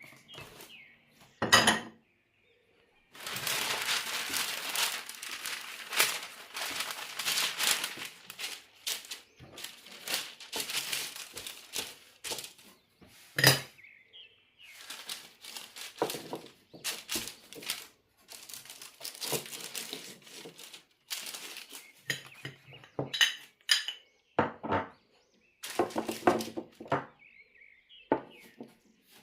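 Kitchen work: pots, dishes and cutlery knocking, clinking and scraping, with a sharp knock about a second and a half in and a long stretch of scraping a few seconds later.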